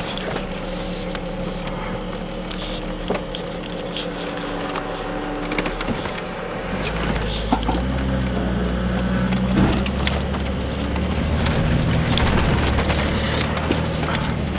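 Jeep Cherokee's engine running under load on a steep sandy off-road hill, heard from inside the cab, with scattered knocks and rattles from the body over rough ground. About seven seconds in the engine grows louder as it works harder.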